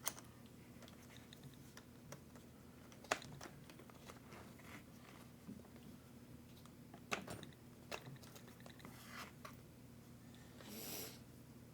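Faint scattered clicks and light knocks of small RC truck parts being handled and set down, with a brief rustle near the end over a low steady hum.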